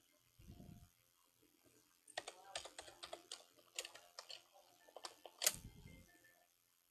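Faint run of light, irregular clicks and taps, like typing or small objects being handled, with a dull low thump near the start and another near the end.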